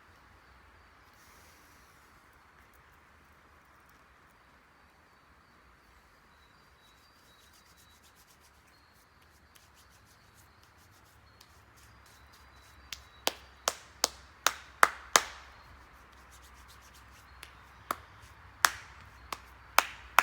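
Faint steady hiss, then about two-thirds of the way in a quick run of sharp clicks or snaps, roughly three a second, with a few more spaced out near the end.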